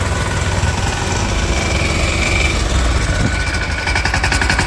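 Tractor's diesel engine running steadily with a low, throbbing rumble.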